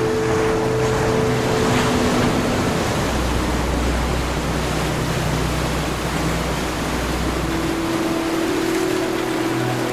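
Ocean surf washing in a steady hiss of breaking waves, under soft music of long held chords that shift every few seconds, with a deep low note through the middle.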